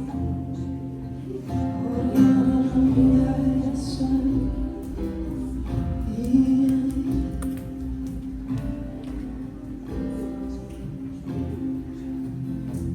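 Live worship music: acoustic guitar strumming with a voice singing along.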